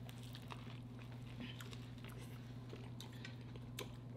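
Faint chewing of food: soft, scattered mouth clicks over a steady low hum.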